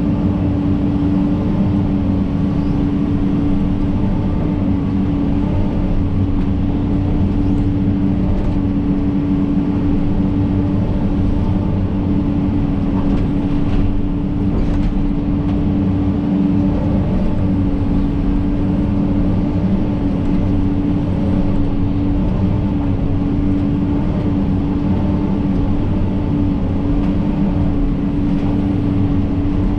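John Deere 130G excavator's diesel engine running steadily under load, a constant drone with a steady whine held at one pitch.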